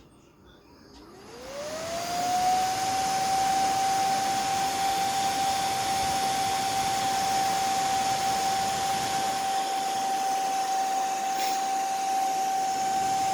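Homemade fan driven by a hard-disk spindle motor with a PC-cooler impeller, spinning up from its lowest speed: a rising whine and rush of air about a second in, then running steadily at high speed with a high, even whine over the blowing air.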